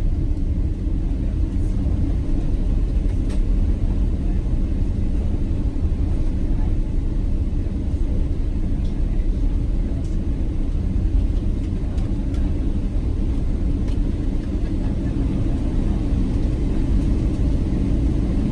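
Steady low rumble inside the cabin of a Boeing 777-300ER moving on the ground just after landing, from its engines and wheels.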